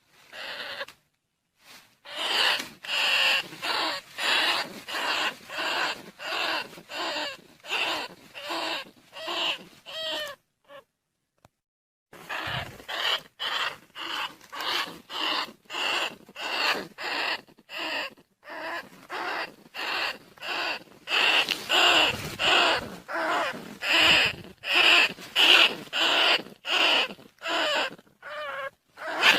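Recorded rat calls used as a lure for field rats and bandicoot rats: short squeaks repeated about twice a second, with a brief break about halfway through.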